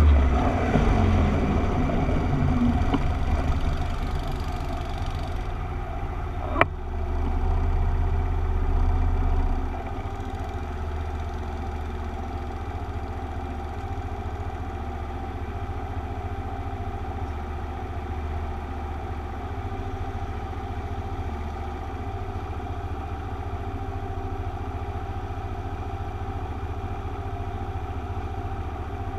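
Motorcycle engine slowing as the bike rolls to a stop, then idling steadily for the rest of the time. A single sharp click about six and a half seconds in.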